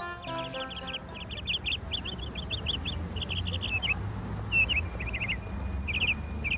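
A songbird singing quick runs of high chirps and short trills in several bursts, over a low steady rumble of outdoor background.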